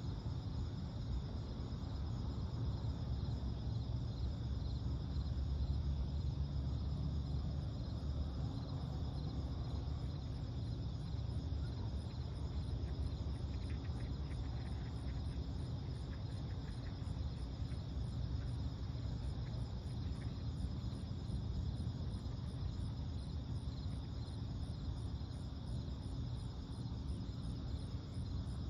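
Night insects chirping in a steady, fast, even pulse, over a low steady rumble.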